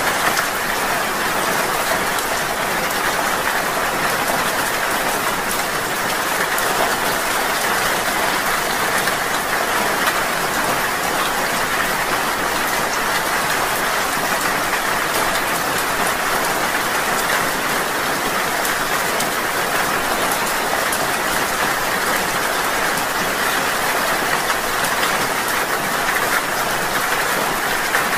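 Steady rain falling, an even unbroken hiss with no pauses or changes.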